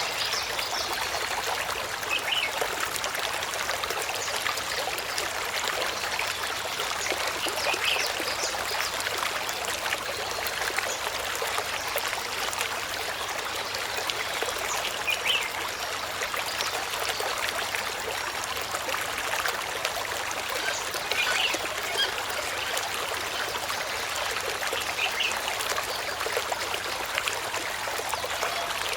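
Water running and trickling steadily, like a small stream, with a few brief high-pitched sounds now and then.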